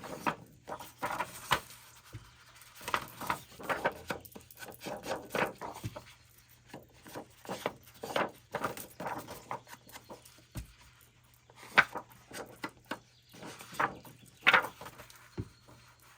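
Paper and craft supplies being handled on a table: scattered short taps, clicks and rustles, with a few sharper clicks later on.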